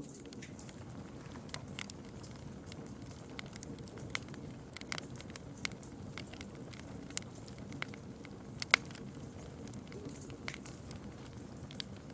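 Campfire crackling: burning wood giving irregular sharp snaps and pops over a steady low background of flame noise, with one much louder pop about nine seconds in.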